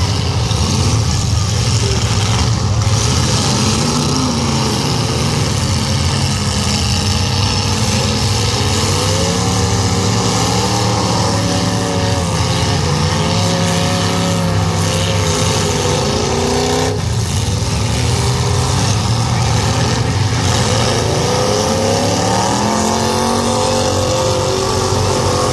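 Several demolition derby cars' engines running and revving, their pitch rising and falling again and again over a continuous loud noise.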